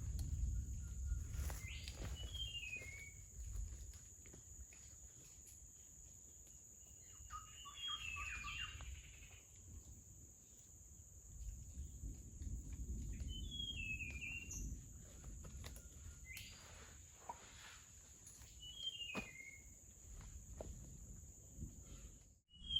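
Rainforest ambience: a steady high-pitched insect drone, with a bird repeating a short descending phrase of chirps four times. Low rumbling and scattered clicks run underneath.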